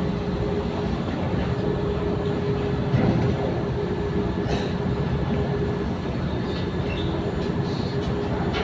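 Ship's engine running with a steady low drone and a held hum as the vessel comes in to dock, with a brief knock about three seconds in.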